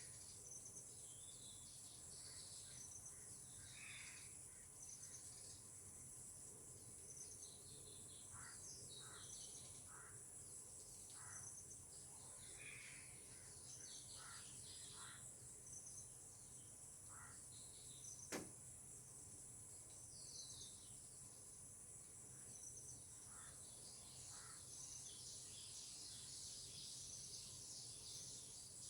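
Faint nature ambience: a steady high-pitched drone of insects such as crickets, with scattered short bird chirps. A single sharp click comes about two-thirds of the way through.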